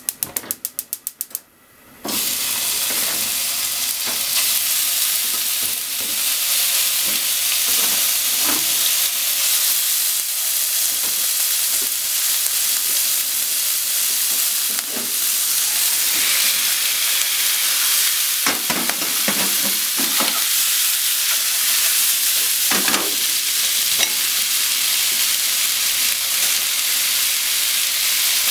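A quick run of about ten clicks over the first second and a half, then chicken, onion and potatoes frying in a frying pan: a loud, steady sizzle with now and then a scrape or knock of a utensil stirring the food.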